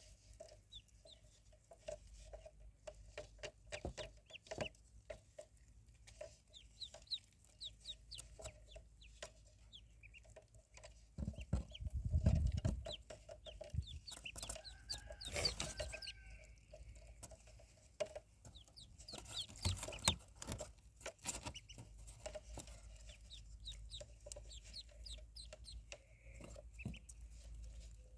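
Ducklings peeping in many short, high calls, with lots of small taps and clicks among them. About halfway through, a louder low rumble comes in briefly, followed by a few louder scuffling noises.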